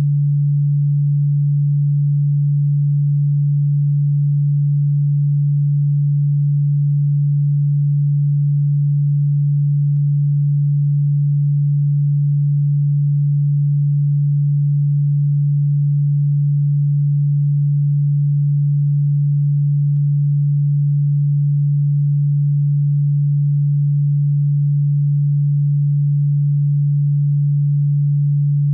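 A single steady, unbroken low electronic sine tone at about 150 Hz, played as an insect-repellent sound.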